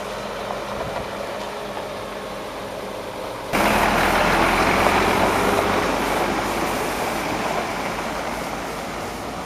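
A motor vehicle's engine running steadily; about three and a half seconds in, the sound jumps suddenly to a much louder rushing noise over the engine, which slowly eases off.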